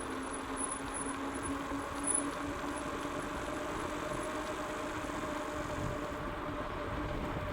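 Electric bike being ridden: a steady motor whine over tyre and wind noise, holding an even pitch.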